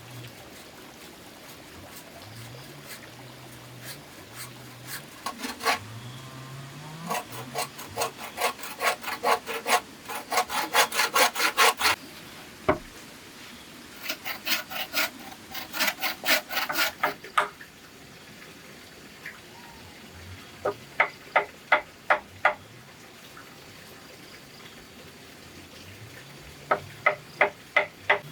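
A hand tool working bamboo in rhythmic rasping strokes, about three a second, in four separate bursts with short pauses between them.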